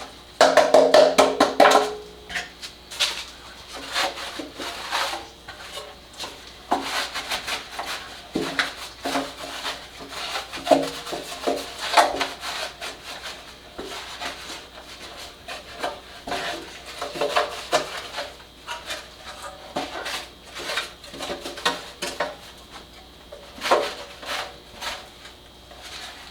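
Plastic air cleaner housing being scrubbed and handled while cleaned with degreaser: irregular rubbing, knocks and clatter, loudest in the first two seconds.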